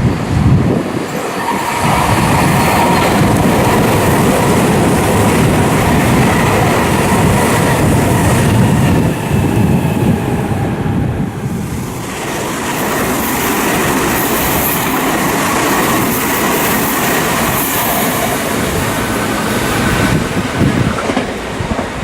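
Meitetsu 2000 series μSKY electric train passing close by at speed, its wheels clattering over the rail joints with a faint squeal, briefly easing about halfway through.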